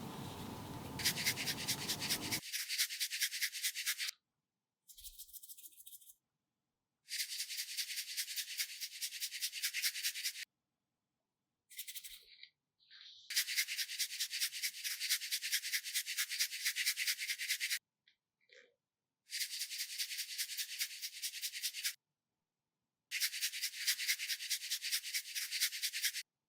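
Rapid, even scratching or rubbing strokes, many per second, in bursts of a few seconds broken by dead silence. A fuller, lower rushing noise ends about two seconds in.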